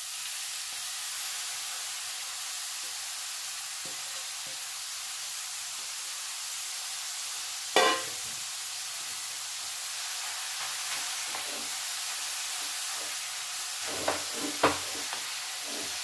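Grated carrots sizzling steadily in hot ghee in a metal kadhai, with one sharp knock about halfway and a few knocks of a spatula against the pan near the end as stirring begins.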